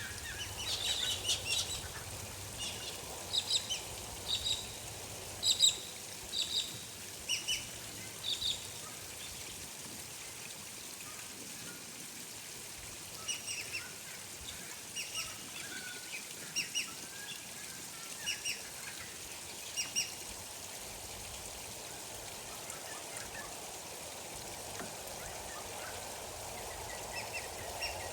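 Small birds giving short, high chirps in scattered clusters through the first eight seconds, then again from about thirteen to twenty seconds. Under them runs a steady hiss of gently flowing water.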